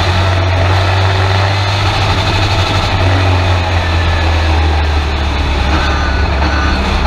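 Race truck's engine running steadily, heard from inside the cab, a strong low drone whose pitch drops slightly about five seconds in.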